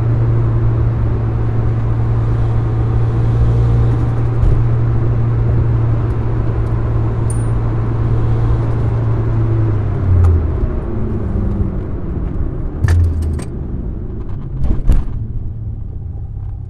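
Mitsubishi Lancer Evolution VIII's turbocharged four-cylinder engine and road noise heard inside the cabin while cruising, a steady low drone. About ten seconds in, the engine note drops and the sound grows quieter as the car slows, with several sharp clicks near the end.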